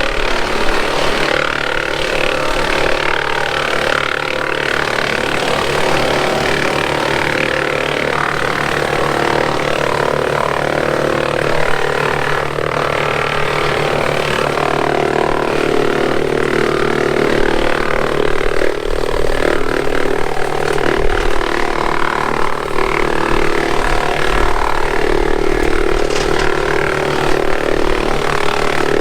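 Woodmaxx PTO wood chipper running off a Kubota M7060's diesel engine, chipping brush. The sound is steady and loud, and its tone shifts about halfway through.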